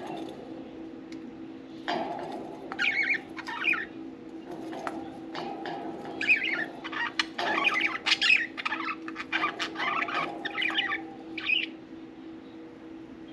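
Pet budgerigars chattering and chirping in quick bursts, with scattered sharp clicks and taps among the calls.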